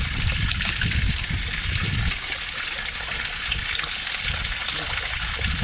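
Water from a pumped hose gushing and splashing onto mud, cutting a drainage channel. A low rumble underneath stops about two seconds in and returns near the end.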